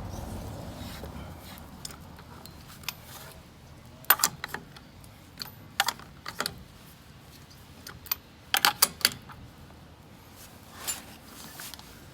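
Scattered sharp clicks and clinks, single ones about four and six seconds in, then a quick cluster of several about halfway through the second half.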